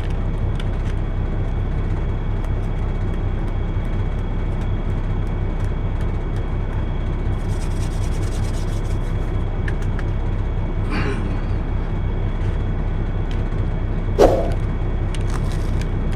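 Steady low rumble of a semi truck's idling diesel engine, heard inside the cab, with faint small clicks. There is one short, louder thump about two seconds before the end.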